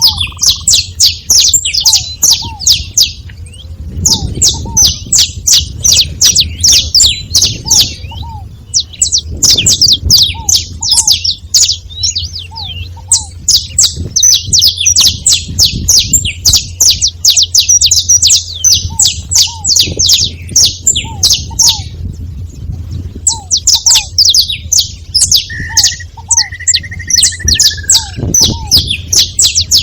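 Several saffron finches singing together, long runs of rapid high chirps broken by brief pauses, with short paired lower notes repeating among them and a steady low hum underneath.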